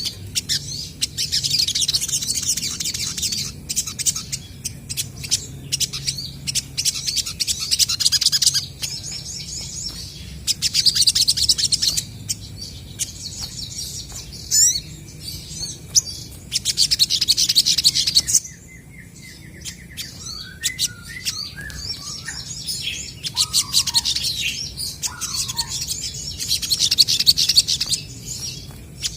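Olive-backed sunbirds singing back and forth: repeated bursts of rapid, high chattering trills a second or two long, with a short run of lower, separate whistled notes about two-thirds of the way through.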